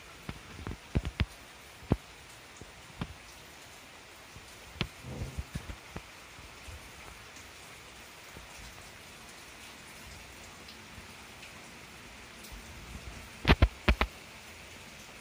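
Steady rain hissing, with large drops landing in sharp separate taps: a scattered handful at first, then a loud cluster of about four near the end.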